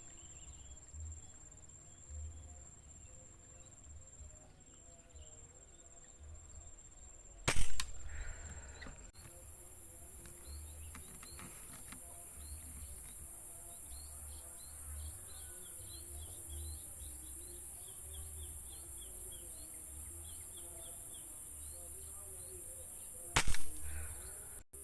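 Two sharp shots from a PCP air rifle, the first about seven seconds in and the second near the end. Faint small-bird chirps between them come from munias. A steady high hiss sets in soon after the first shot.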